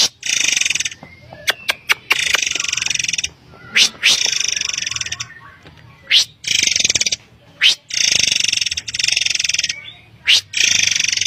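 Forktail (murai air) calling as a lure: harsh, buzzy rasps about a second long, alternating with sharp, high whistles that sweep upward.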